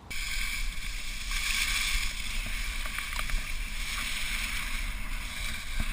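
Skis running down the slope with a steady rushing hiss, and wind rumbling on the microphone. A few faint clicks come through about halfway in.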